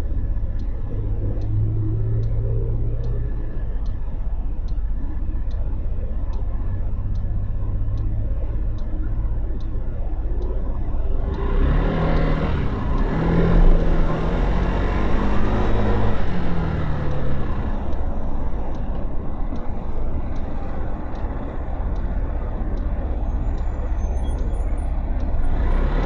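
Motorcycle engine idling at a stop with a regular ticking about twice a second. About eleven seconds in the bike pulls away, its engine revving up through the gears amid rising wind and road noise, then running more steadily.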